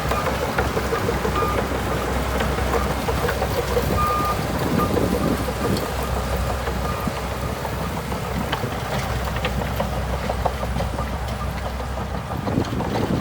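Bulldozer's diesel engine running under steady load with continual clanking and rattling. A few short high squeaks or beeps come irregularly, the longest about four seconds in.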